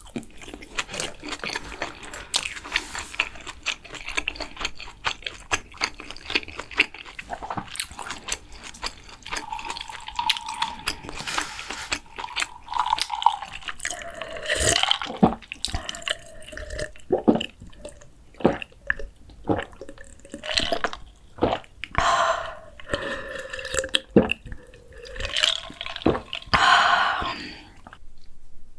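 Close-miked eating sounds: wet chewing with small clicks at first, then from about a third of the way in, a run of swallows and gulps of liquid with a wavering pitch.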